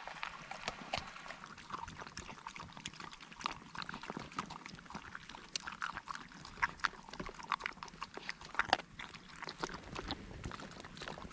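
Large dog eating warmed food from a bowl: quick, irregular chewing, lapping and small clicks, with a louder click a little before the end.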